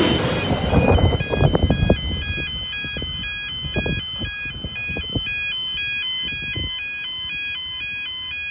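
Freight train wagons knocking over rail joints as the last of the train passes, the knocks thinning out and stopping about two-thirds of the way through. A level crossing's electronic alarm keeps sounding over it, a steady alternating two-tone warning.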